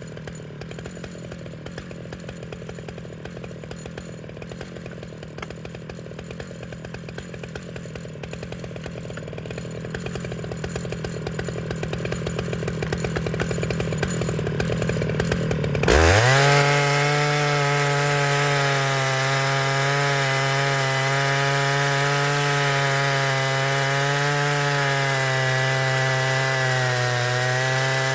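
Stihl MS881 chainsaw on an Alaskan mill, idling unevenly for about sixteen seconds. It then revs up sharply and runs steadily at high speed, louder, as in a milling cut.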